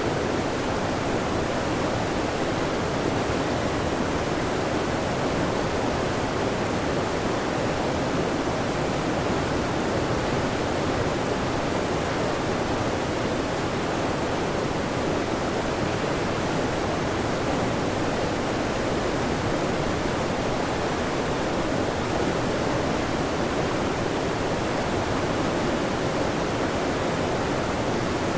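Waterfall: a steady rush of falling water, even and unbroken, fullest in the middle range.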